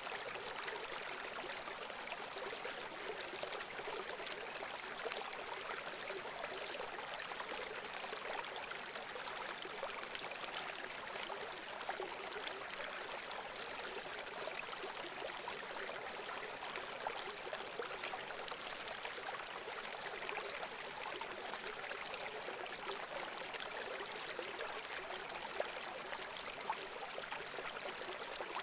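Running water: a stream flowing and trickling steadily, a light splashing hiss with little low rumble.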